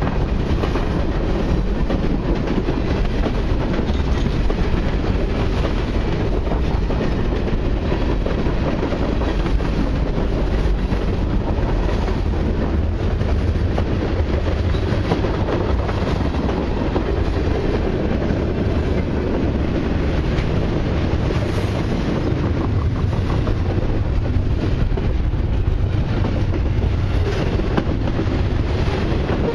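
Freight train cars rolling past: a steady rumble and clatter of steel wheels on the rails, unbroken throughout, as tank cars, hoppers and double-stacked container well cars go by.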